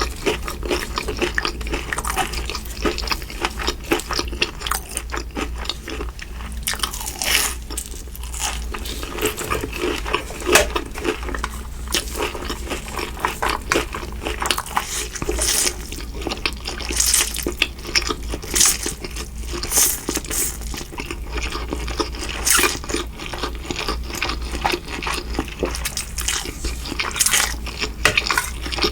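Close-miked eating of crispy fried shrimp and Mi Goreng noodles: rapid, irregular crunching bites and chewing throughout. A steady low hum runs underneath.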